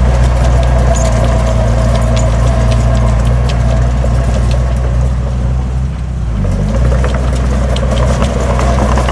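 Heavy diesel engine of earthmoving equipment running steadily, with scattered light metallic clicks. About six seconds in it dips briefly and its pitch shifts before settling back.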